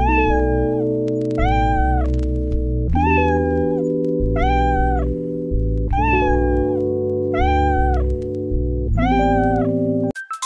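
A domestic cat meowing seven times, one meow about every one and a half seconds, each call rising and then falling away. Under it runs background music with sustained chords and a bass line. Near the end the meows and music cut off and a different jingle of short notes begins.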